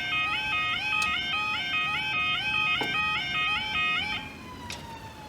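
Level crossing yodel alarm sounding its alternating two-tone warble, about two changes of pitch a second, which cuts off about four seconds in. A faint tone falling in pitch follows.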